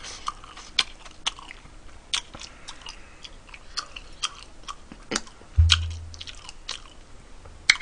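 Close-miked eating: chewing with scattered small clicks and snaps at irregular intervals. A dull low thump stands out about five and a half seconds in.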